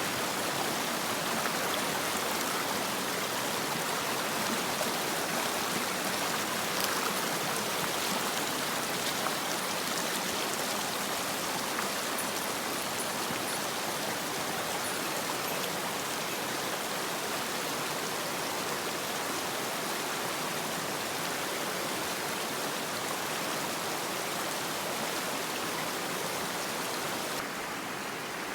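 Mountain stream water flowing steadily. Near the end the sound turns duller as its high hiss drops away.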